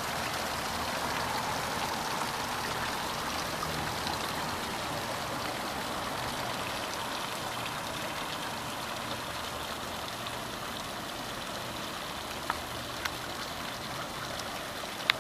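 Water fountain splashing steadily, with falling water running into its basin. A few short sharp clicks late on, the loudest near the end.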